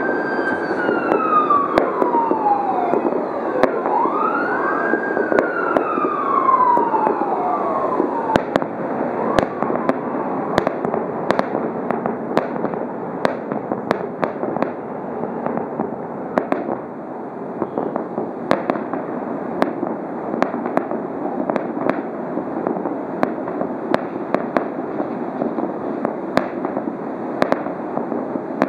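Aerial fireworks going off in a steady run of sharp bangs and pops over a continuous rushing background. For roughly the first ten seconds a siren also wails, rising and falling about three times.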